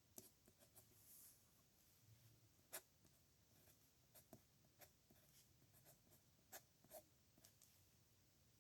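Faint pen scratching and ticking on paper as characters are handwritten: irregular small taps and short strokes, with a longer scratch about a second in.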